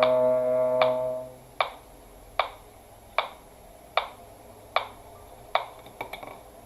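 A cello's final held note dies away about a second in, over a metronome ticking evenly, about one click every 0.8 seconds, which then carries on alone.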